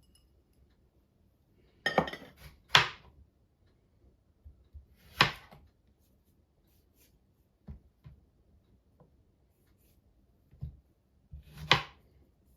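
Kitchenware being handled: dishes and utensils clinking and knocking. There are four sharp clinks, two close together about two seconds in, one about five seconds in and one near the end, with a few softer knocks between.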